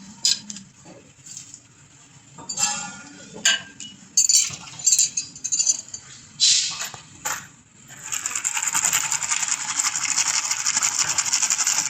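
Metal tools and fittings clinking and knocking in a few separate strikes, then a few seconds of rapid, continuous metallic rasping near the end.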